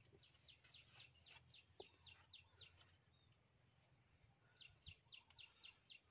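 Faint bird song: two runs of quick high notes, each falling in pitch, about four a second, with a short pause between the runs.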